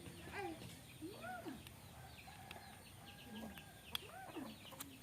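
Four short animal calls, each rising and then falling in pitch, with faint high chirps behind them in the second half and a couple of sharp clicks near the end.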